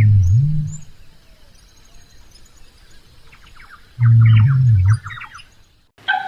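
Small birds chirping, with two loud, low animal calls about four seconds apart, each lasting about a second and dipping then rising in pitch.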